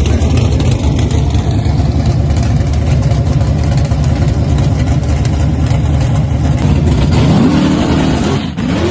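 A car engine running loudly and steadily, then revving up briefly near the end.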